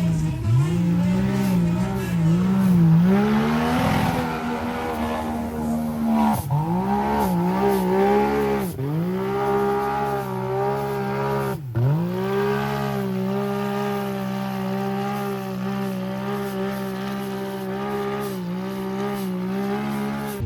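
Off-road vehicle engine revving hard. The pitch dips and climbs over and over, falls sharply about twelve seconds in, then holds at steady high revs.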